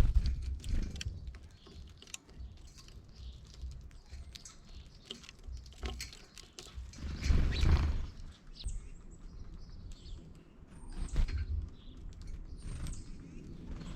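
Small birds giving a few short, high chirps, mostly in the second half, among scattered light ticks and taps and a few low rumbling swells.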